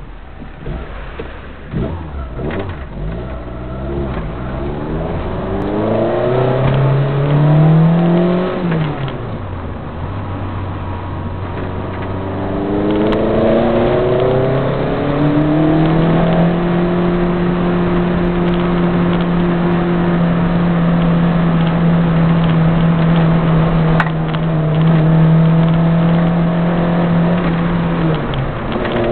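A 1300 rally car's engine heard from inside the cabin as it accelerates along the road. The revs climb, fall sharply about eight seconds in, climb again, and then hold steady for about twelve seconds before falling near the end.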